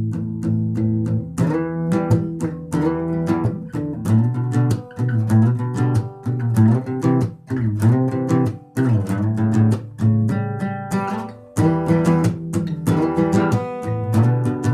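Guitar playing: plucked notes and chords struck in a steady rhythm.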